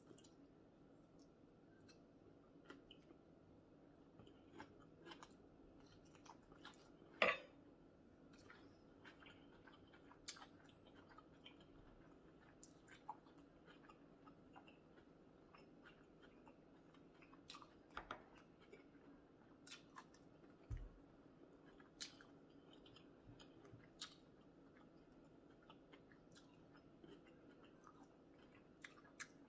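A person quietly chewing a meal of sausage, rice and cucumbers, with scattered sharp clicks and taps of utensils and dishes, the loudest about seven seconds in.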